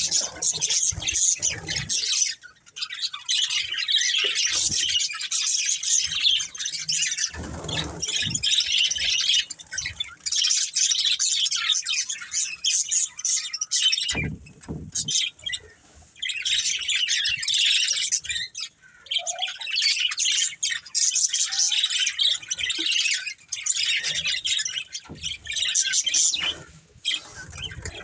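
Budgerigars chirping and chattering almost without a break, with a few short pauses and a couple of low knocks.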